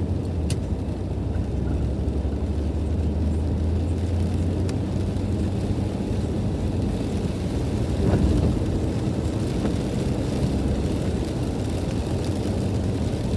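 Car cabin noise while driving on a rain-soaked road: a steady low rumble of engine and tyres, briefly louder about eight seconds in.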